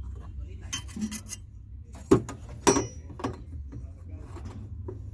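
Scraping and rubbing of parts being handled, then two loud sharp knocks a little after two seconds in and a few lighter taps, over a steady low hum.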